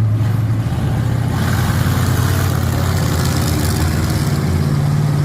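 A monster truck's Chevrolet V8 engine running at low revs with a deep, steady note that steps up a little about four and a half seconds in.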